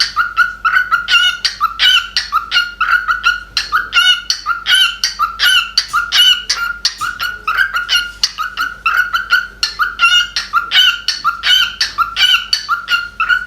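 Cockatiel chirping rapidly and repeatedly, short sharp calls at about four a second without a break.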